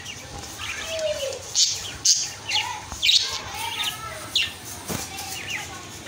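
A bird chirping and calling: a run of short, sharp chirps and a few lower whistled notes, one of them falling in pitch about a second in.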